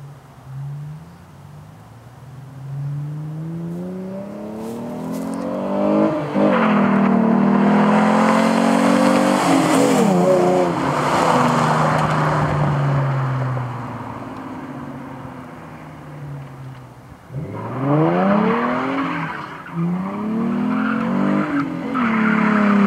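2001 Ford Mustang's 3.8-litre V6 through a dual exhaust with a Flowmaster American Thunder catback, accelerating hard and rising in pitch with quick upshifts as it gets louder, then fading away. About two-thirds of the way in it pulls hard again through several more upshifts, loudest near the end.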